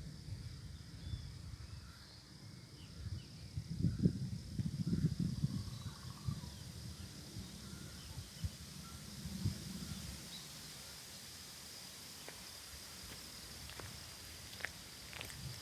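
Outdoor natural ambience with faint scattered bird calls over a steady high-pitched hum. Low rumbles come about four to six seconds in.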